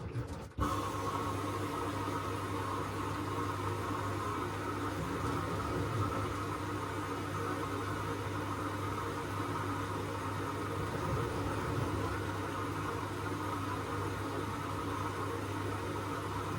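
LG washing machine running with a steady hum, which steps up abruptly about half a second in and then holds even.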